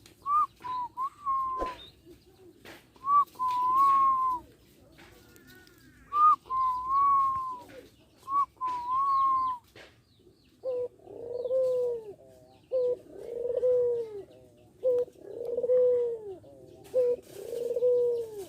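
A young puter dove cooing as it learns its call: first a few higher, short coo phrases, then from about halfway a run of lower, rounded coos repeated roughly every two seconds.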